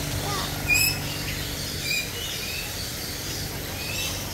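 Several birds calling with short, sharp, high calls, the loudest about three-quarters of a second in and others around two and four seconds, with small chirps between, over a steady low hum.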